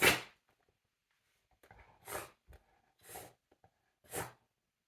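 A Cavalier King Charles spaniel breathing hard through its nose: one sharp burst right at the start, then three short breathy puffs about a second apart.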